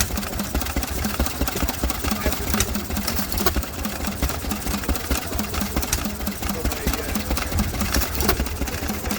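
Vintage stationary engine running steadily with a fast, even beat, with occasional sharp clicks over it.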